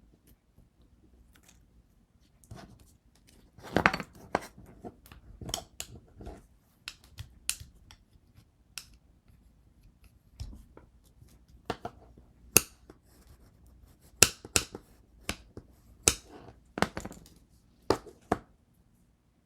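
Irregular clicks, taps and short scrapes of small hand tools and glass pieces being handled on a work surface during stained-glass foiling work.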